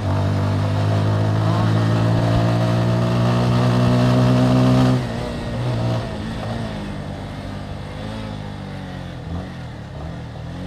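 Motorcycle engine pulling at steady revs, then the throttle closes about halfway through and it drops suddenly to a quieter, lower, uneven run as the bike slows down.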